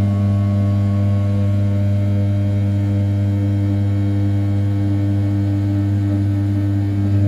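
500 W brushless spindle on a small CNC mill turning at 6000 rpm while an end mill roughs the outside profile of A7075 aluminium. It makes a steady hum with a row of overtones above it, getting a little louder near the end.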